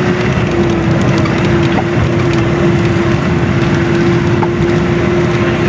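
Vehicle engine running at a steady pitch while driving over a rough track, with continuous rattling and crunching underneath.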